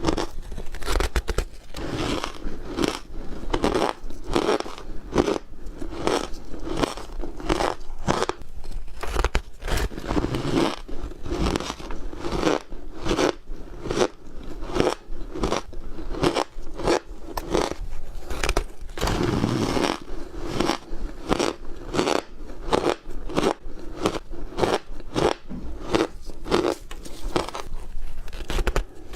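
Ice being bitten and chewed close to the microphone: a steady run of crisp crunches, about two to three a second.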